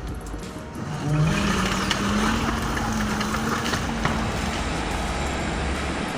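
Heavy vehicle engine running, with a steady low drone that rises slightly in pitch over a couple of seconds before fading back into the general machine noise.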